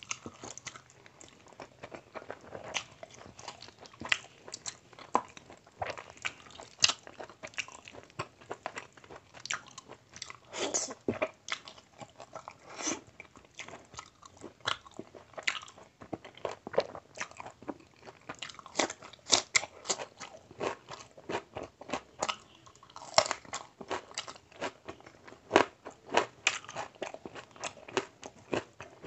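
A man chewing mouthfuls of basmati rice and mutton curry eaten by hand, with wet lip smacks and mouth clicks coming many times a second in an irregular stream.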